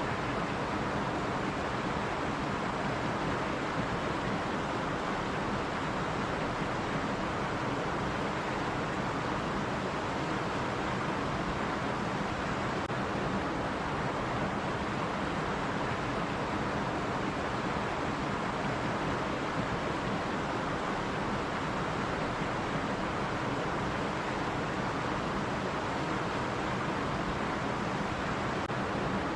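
Running stream water rushing and babbling steadily, an even, unbroken rush.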